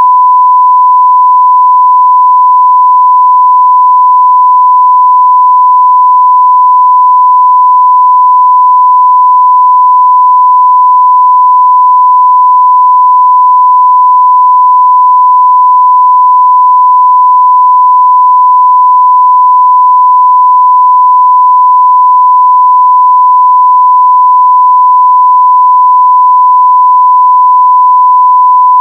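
1 kHz sine-wave test tone at 0 dB full scale: one pure, unbroken, loud steady pitch.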